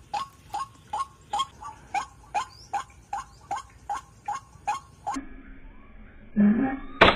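White-breasted waterhen (ruak-ruak) calling a rapid, even series of short 'kwak' notes, about two and a half a second; the calling breaks off abruptly about five seconds in, and a sharp crack sounds near the end.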